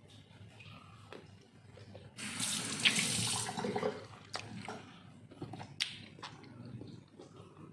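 A water tap runs into a sink for under two seconds, then a few light clicks and knocks.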